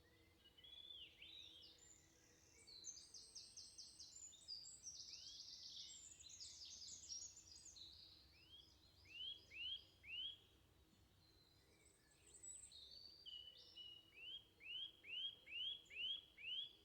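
Faint songbird song: rapid high trills, then short repeated rising whistled notes, three together about nine seconds in and six in a run near the end.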